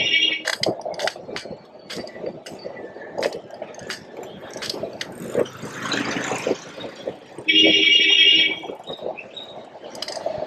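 City street traffic with a vehicle horn honking twice: a short blast at the start and a longer one of about a second near eight seconds in. In between come scattered clicks and rattles and a swell of passing-vehicle noise.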